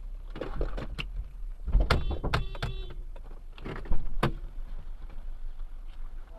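Vehicle audio: a steady low rumble with a series of sharp knocks and bangs, the loudest about two and four seconds in.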